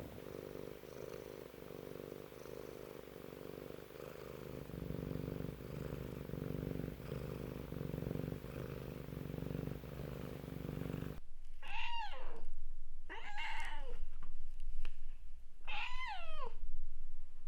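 A cat purring steadily. About eleven seconds in the purring stops suddenly and a cat meows three times, each call sliding down in pitch.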